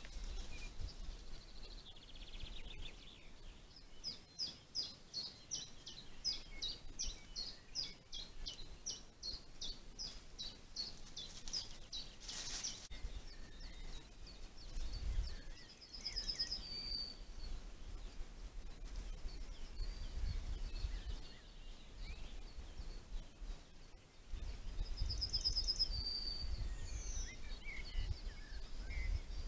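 Outdoor ambience with a songbird singing: a rapid run of high repeated notes, about three a second, for several seconds, then shorter high phrases and a quick falling trill near the end, over a low wind rumble. A short noise burst comes about twelve seconds in.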